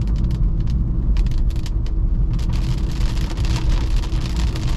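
BMW E46 320i's M54B22 inline-six engine running with a low rumble, while raindrops tick on the car; about two and a half seconds in, a steady hiss of rain sets in over the engine.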